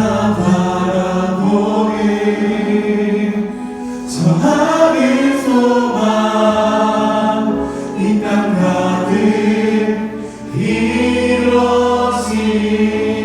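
Worship music: a church praise team singing a praise song together, over sustained instrumental accompaniment.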